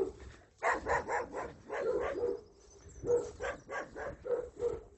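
A dog barking repeatedly in short runs of quick barks, with a short break in the middle.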